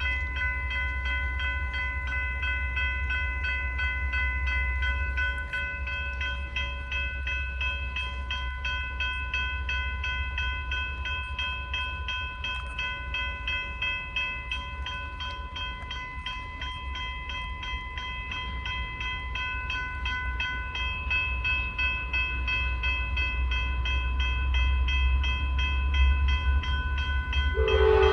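Railroad grade-crossing bell ringing in a fast, even rhythm over a low rumble that grows louder as the locomotives approach. Just before the end a locomotive horn starts to sound.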